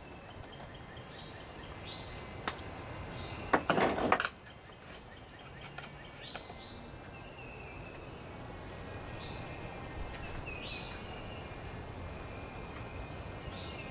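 Faint steady background with short high chirps of small birds every second or two. About four seconds in there is a brief clatter, the loudest sound.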